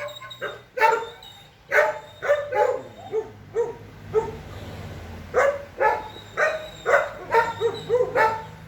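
Dog barking repeatedly in short, sharp barks, about two to three a second, with a brief pause around the middle before the barking resumes.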